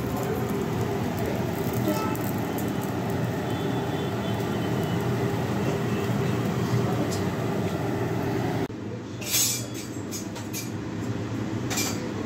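Cabbage paratha frying in an oiled non-stick pan: a steady sizzling hiss over a low hum. About nine seconds in the sizzle cuts off, leaving the hum with a few short taps and rustles.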